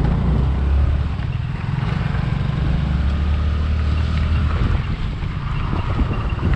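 Motorcycle engine running under way, with wind buffeting the microphone; the low engine hum eases off about two-thirds of the way through.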